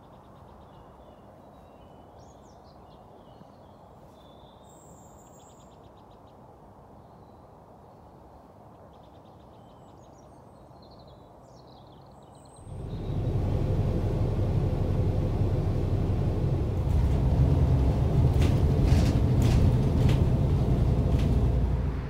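Faint bird chirps over a quiet background. About thirteen seconds in, a loud, steady low rumble starts suddenly and drowns them out.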